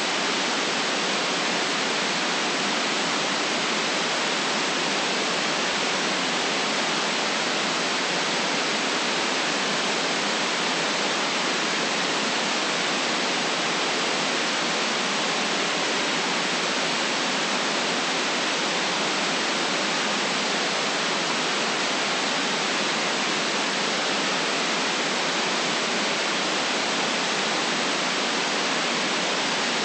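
Steady, unchanging white noise, an even hiss with the deep bass and highest treble cut away. No other sound stands out from it.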